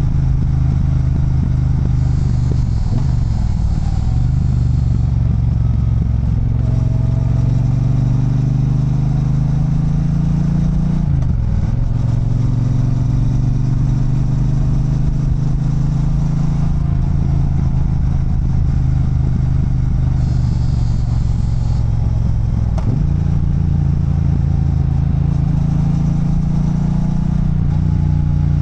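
Triumph Bonneville Bobber's 1200 cc parallel-twin engine running under way on a downhill ride. Its note is steady but breaks and shifts in pitch three times, about 3, 11 and 23 seconds in, like gear changes.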